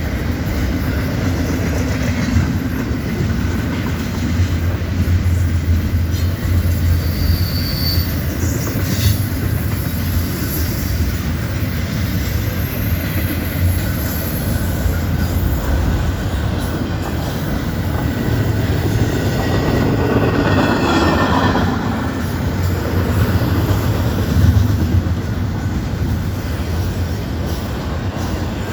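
Cars of a long double-stack container train rolling past at speed: a steady rumble of steel wheels on rail, with a brief high wheel squeal about eight seconds in.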